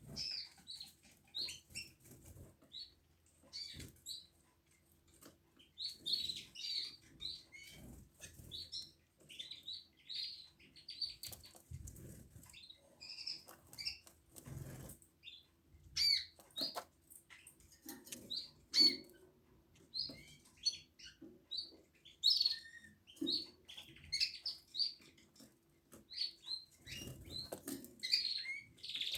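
Domestic canaries calling with short, scattered chirps, with a few soft thumps mixed in.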